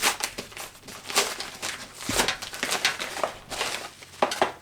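Packaging crinkling and rustling as it is handled, in irregular crackles.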